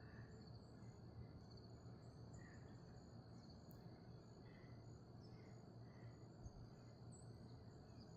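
Faint outdoor ambience: insects keep up a steady high-pitched trill, with faint short chirps scattered through it.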